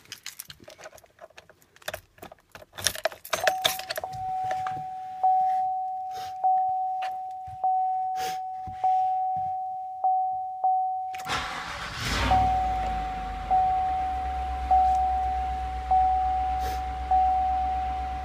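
Keys rattling, then the truck's warning chime dinging steadily about once a second. About eleven seconds in, a 2015 Chevy Silverado's 5.3-litre V8 cranks and starts, then settles into a steady idle while the chime keeps dinging.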